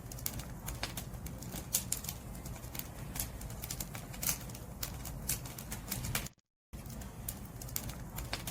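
Firewood burning in a bonfire, crackling with many irregular sharp pops over a low steady rumble. The sound cuts out to silence for a moment about six seconds in, then carries on.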